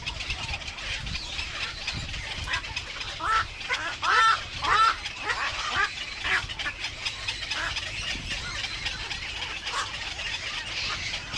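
Birds calling: a string of short, repeated calls, loudest between about three and five seconds in, over a low steady background rumble.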